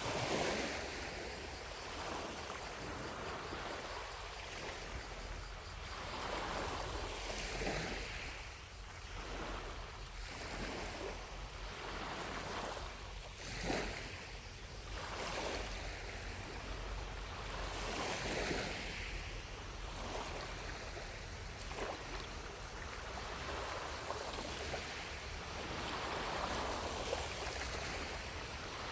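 Small lake waves lapping against the shore, one soft wash every couple of seconds, with a sharper splash about halfway through. Cicadas drone faintly in the distance.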